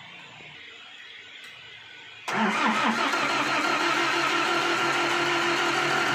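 Restored Mitsubishi FE 100 engine starting abruptly about two seconds in, then running steadily at an even speed.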